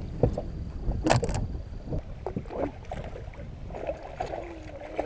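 Low wind rumble on the microphone with scattered knocks and handling noises in a small fishing boat; the sharpest knocks come about a second in.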